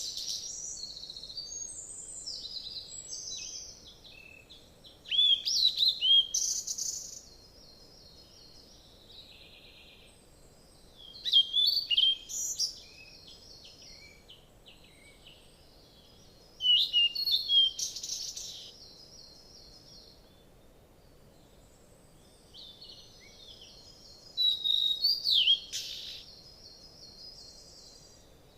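Wild birds chirping in bursts of high, quick calls, each burst lasting about two seconds, coming every five or six seconds with near quiet between.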